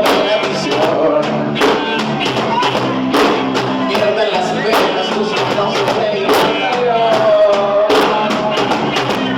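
Live band playing a Latin pop song: a sung melody over a steady percussion beat.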